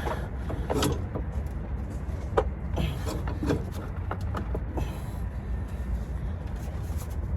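Scattered clinks and knocks of hand tools on metal while working on a junkyard vehicle, over a steady low rumble.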